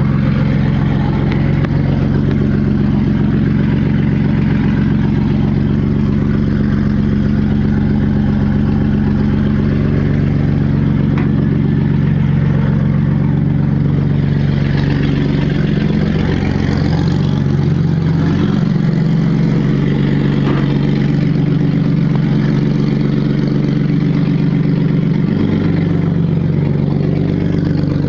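Mercedes-Benz car engine running steadily, its pitch shifting a few times in the second half as engine speed changes.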